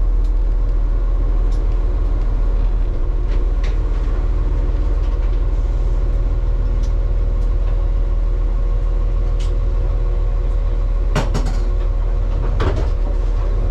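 Steady low hum of a stationary passenger train idling with its doors open, its engine and onboard equipment running. Near the end come two short knocks.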